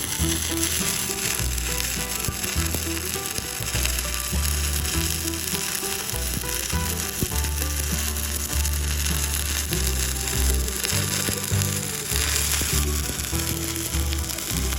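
Stick-welding arc with a 7018 electrode, crackling steadily without a break, over background music with a bass line.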